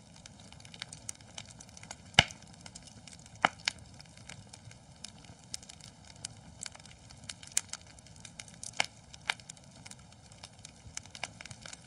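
Wood fire in a fireplace crackling, with irregular sharp pops over a low steady hiss; two louder pops come a little after two seconds and at about three and a half seconds.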